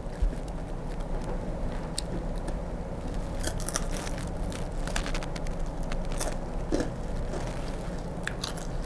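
Deep-fried grasshoppers being bitten and chewed close to the microphone, with sharp, crisp crunches coming in scattered clusters, more of them in the second half.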